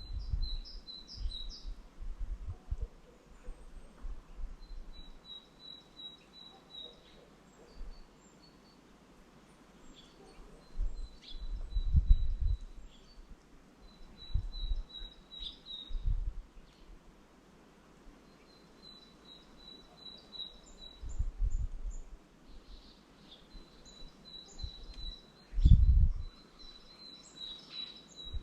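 Small songbirds at a winter feeder giving runs of short high chirping calls, repeated every few seconds. Several bursts of low rumble come and go, the loudest near the end.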